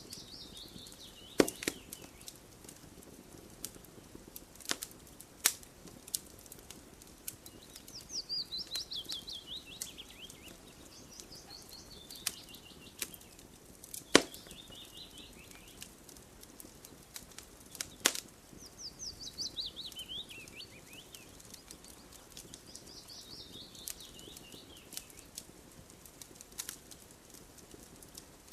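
Campfire crackling, with irregular sharp pops of burning wood, two of them louder about a second and a half in and near the middle. A songbird sings a quick run of notes falling in pitch, repeated several times over the fire.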